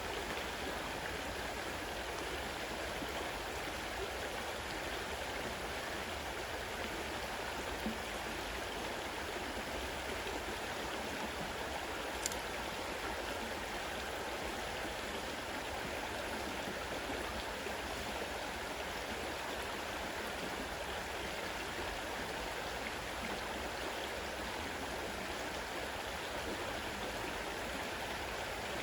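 Fast-flowing river water rushing steadily, with no change in level.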